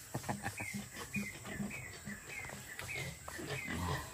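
A bird giving short, falling chirps in a steady series, about three a second, over low grunting.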